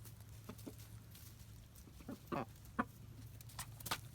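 Chickens clucking in short, scattered calls while they peck up a treat of live crickets.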